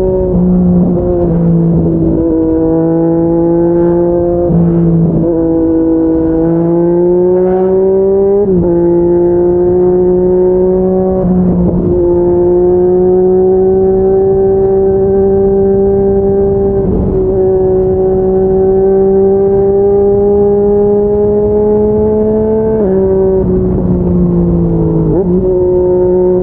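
Yamaha MT-09's three-cylinder engine through a Yoshimura R55 slip-on exhaust, pulling under load on the move. Its pitch climbs steadily and then drops suddenly at several gear changes, with a long stretch of near-steady cruising in the middle.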